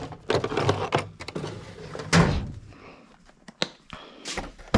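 Tool chest drawers being pulled open and pushed shut, with tools knocking about inside: a string of knocks and clicks, the loudest bang about two seconds in.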